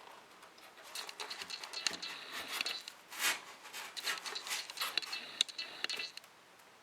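Packaging being handled as a heavy die-cast model crane is lifted out of its box: irregular rustling, scratching and scraping, quieter for the last second or so.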